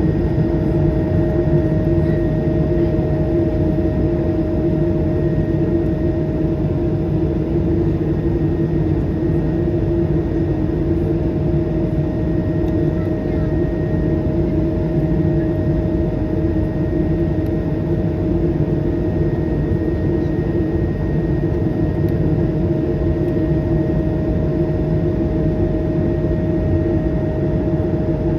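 Airbus A220-300's Pratt & Whitney PW1500G geared turbofan engines and rushing air, heard as a steady drone inside the passenger cabin, with a constant hum through it.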